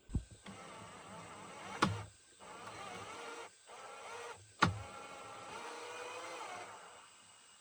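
Electric drill motor whining in several runs, its pitch wavering under load, with a thump at the start and two sharp knocks in between.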